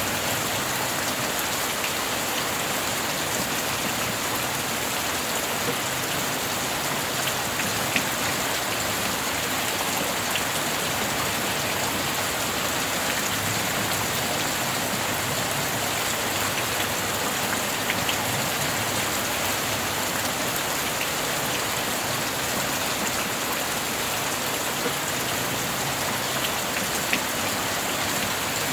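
Steady rain falling, a dense even hiss with a few sharper drop ticks now and then.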